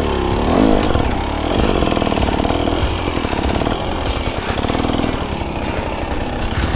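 Two-stroke dirt bike engine revving while being ridden, its pitch rising and falling several times in the first couple of seconds, then running steadier.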